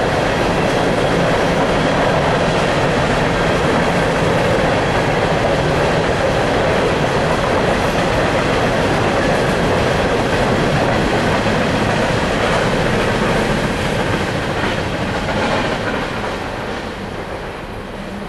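Empty coal hopper cars of a long freight train rolling past, steel wheels on the rails making steady wheel-and-rail noise that fades over the last few seconds as the end of the train goes by.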